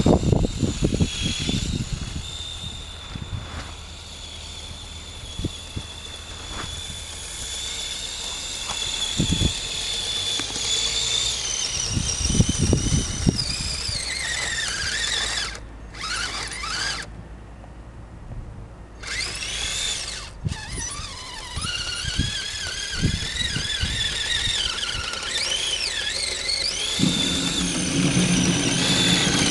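Electric radio-controlled Blizzard EP model's motor and drivetrain whining, the high whine rising and falling as it speeds up and slows, with scattered knocks. The whine drops away briefly past the middle.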